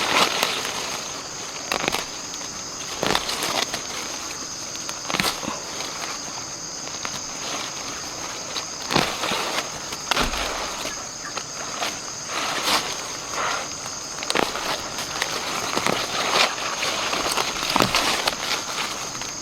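Insects shrilling steadily in a high, even tone, with irregular knocks and crackles scattered through it.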